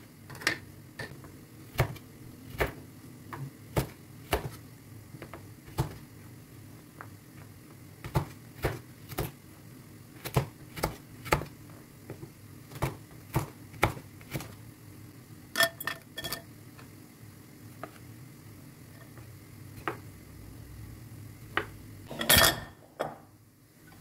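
Dishes and cutlery knocking and clinking during kitchen work: a string of separate sharp taps, three ringing clinks about two-thirds of the way through, and a louder brief rattle near the end.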